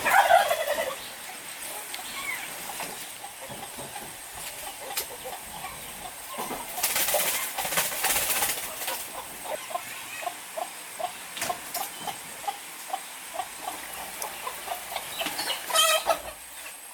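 Chickens clucking in short, evenly spaced notes, about two a second, with a louder squawk near the end. A burst of rustling noise comes about seven seconds in.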